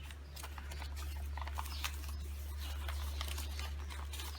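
Paper rustling with small ticks and scrapes as the pages and tags of a handmade junk journal are handled and turned, over a steady low electrical hum.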